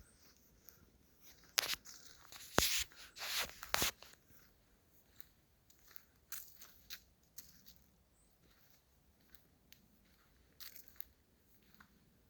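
Crunching and crackling of dry leaves and twigs on the forest floor: a burst of several loud crunches in the first few seconds, then only faint scattered clicks.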